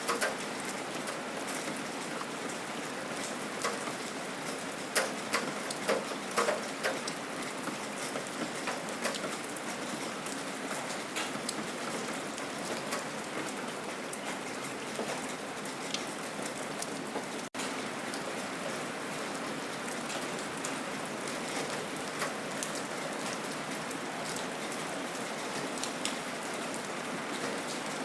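Steady rain, with many individual drops ticking sharply close by over the even hiss. There is a momentary dropout a little past halfway.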